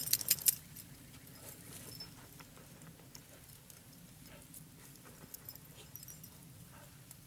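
Dogs digging in dry dirt under a bush: a brief burst of jingling clicks in the first half second, then faint, scattered scratching and ticks.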